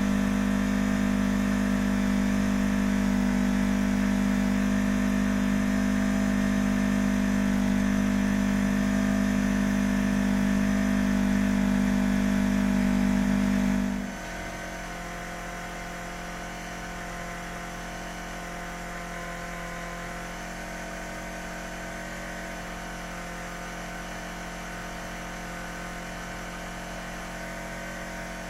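Yamaha MT-25's 250 cc parallel-twin engine idling steadily through an OVER Racing GP-Performance RS titanium slip-on muffler. About halfway through the sound suddenly becomes noticeably quieter and stays steady.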